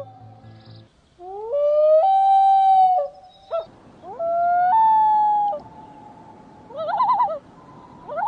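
Common loon calling: two long wails, each sliding up and then held, followed near the end by a quavering tremolo call.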